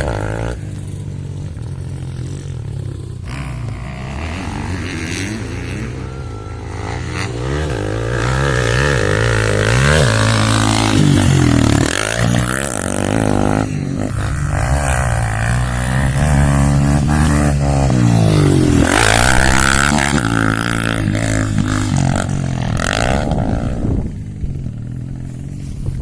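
Honda CRF250F's single-cylinder four-stroke engine running, its revs rising and falling again and again as the bike is ridden.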